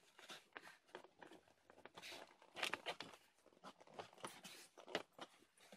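Faint rustling, scraping and small clicks of the plastic air duct and its carpet and foam wrapping being handled and pushed back into the dashboard, loudest about halfway through.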